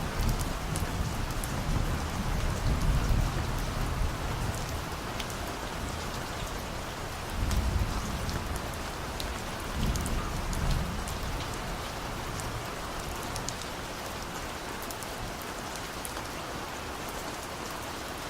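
Steady rain with scattered sharp drop ticks, and distant thunder rumbling low through the first few seconds and twice more around the middle.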